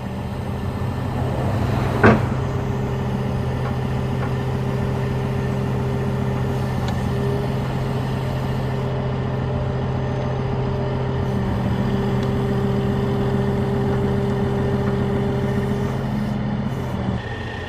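Heavy tow truck's engine running at a steady speed to drive the hydraulics that raise its boom, with one sharp clank about two seconds in.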